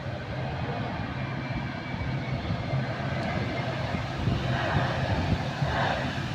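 Airliner's jet engines heard as a steady rumble while it lands, with a low hum underneath and a fuller hiss about two-thirds of the way through.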